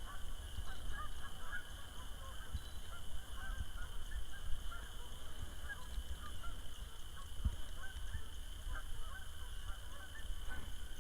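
Many geese honking continually in overlapping short calls, with wind rumbling on the microphone.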